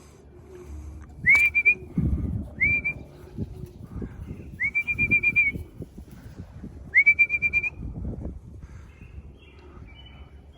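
A man whistling to call racing pigeons down to the loft: four short whistles, each rising and then held on one note, the first and last the loudest, over low rumbling noise.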